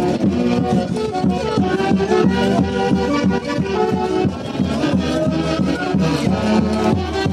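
Andean festival orchestra playing live: reedy saxophone-led melody over a steady, regular beat.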